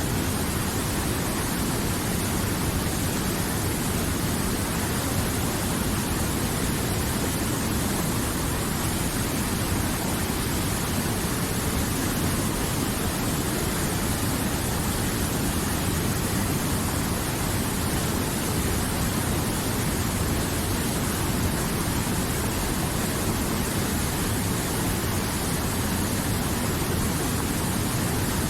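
River water flowing, a steady, even rushing with no change.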